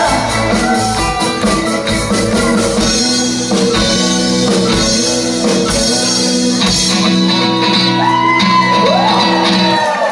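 Live rock band music with electric guitar and drums, a long bending note sounding near the end.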